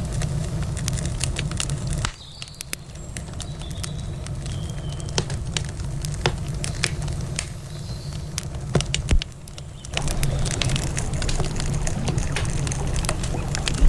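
Campfire crackling, with irregular sharp pops and snaps, over a steady low rumble. The rumble drops away about two seconds in while the crackling goes on, and it returns about ten seconds in.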